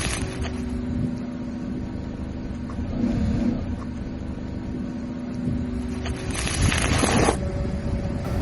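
A machine running steadily with a low hum, and a loud burst of crunching, crushing noise about six seconds in that lasts about a second.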